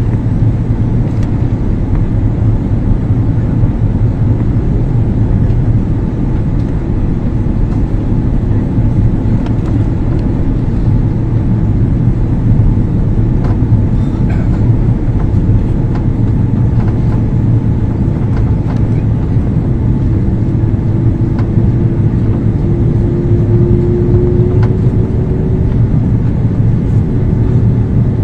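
Airliner cabin noise in flight: a steady, low, heavy roar of the engines and airflow. About two-thirds of the way in, a faint hum joins it and creeps slightly up in pitch.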